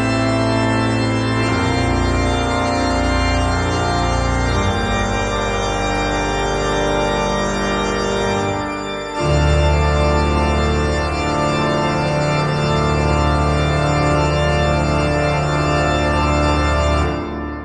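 Background music played on an organ: sustained chords, changing about halfway through, and fading out near the end.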